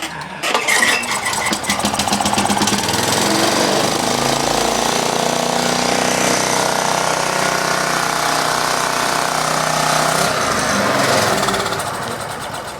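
Small gasoline engine, choked and primed with starting fluid, firing up and running for about ten seconds, then fading out and dying near the end as the fluid burns off.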